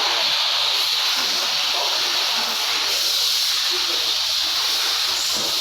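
A steady, even hiss, strongest in the upper-middle range, running without a break.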